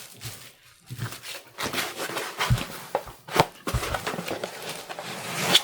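Packaging being handled: rustling with scattered light knocks and clicks as a machine is unpacked from its box.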